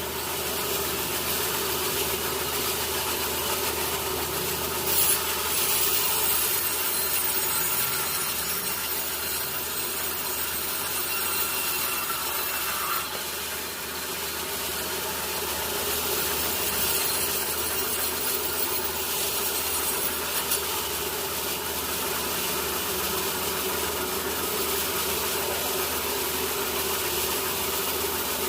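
Sawmill saw cutting through a teak log, a steady sawing noise that runs without a break.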